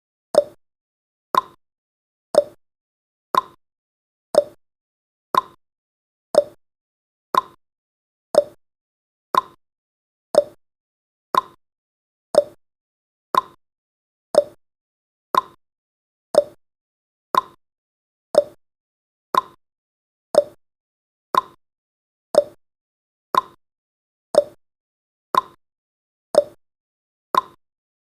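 Countdown timer's clock-tick sound effect: one short click each second, alternating higher and lower in pitch like a tick-tock.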